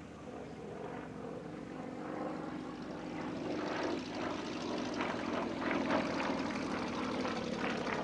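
Yak-50 aerobatic aircraft's nine-cylinder radial engine and propeller in flight during its display, growing louder over the second half.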